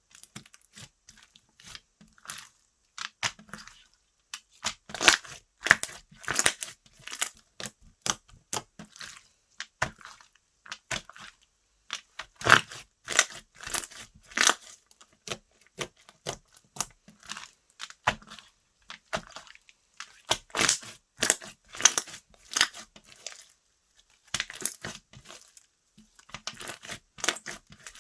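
Slime being squeezed, poked and stretched by hand, giving runs of sticky clicking pops and crackles in several bursts with short pauses between them.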